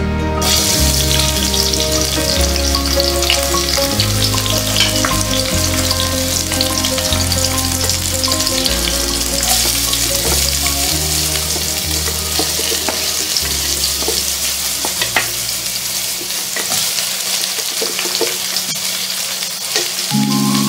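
Sliced onion and chopped garlic sizzling in hot oil in a stainless steel pan; the sizzle starts suddenly about half a second in as they hit the oil and keeps going, with light clicks and scrapes of a wooden spatula stirring them.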